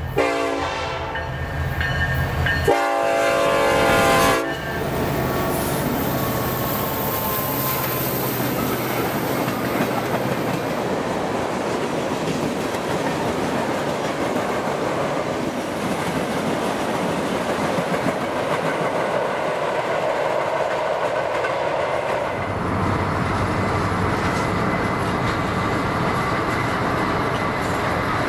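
An EMD SD70ACe diesel locomotive's air horn sounds two blasts at the start, the second louder, then the train of tank cars rolls past with the wheels running along the rails. About three-quarters of the way through, this gives way to the steady rumble of a car driving along the highway beside the train.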